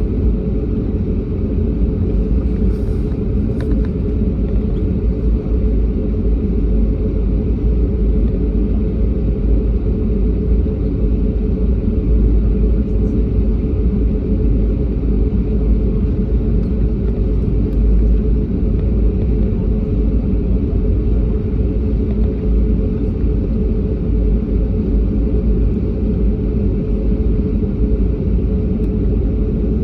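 Airliner jet engines and airframe giving a steady low rumble, with no rise or fall in level.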